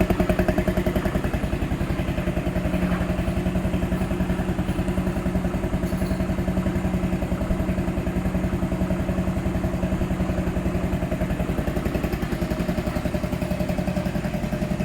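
Yamaha Majesty 125 scooter's single-cylinder four-stroke engine idling steadily with an even, rapid beat, a little louder for the first second.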